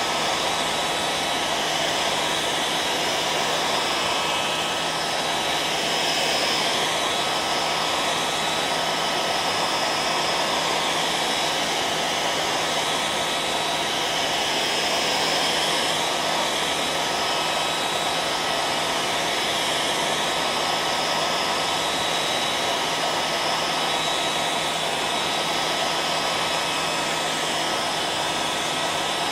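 Hair dryer running steadily: a constant airy whoosh with a faint motor whine held at one pitch.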